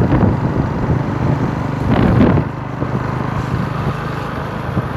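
Small motorcycle engine running steadily while riding, with a brief louder rush of noise about two seconds in.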